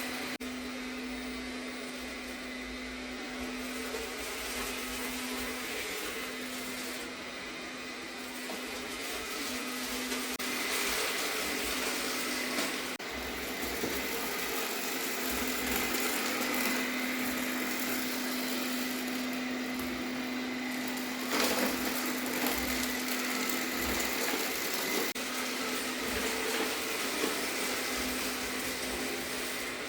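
Arnagar S8 robot vacuum cleaner running through a cleaning cycle: a steady motor hum under a constant rush of suction, with a few sharp clicks, the loudest about two-thirds of the way through.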